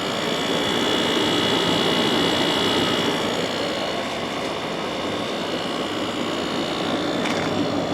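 2009 General Electric 12,000 BTU air conditioner running: a steady rush of fan air with a high, even whine over it.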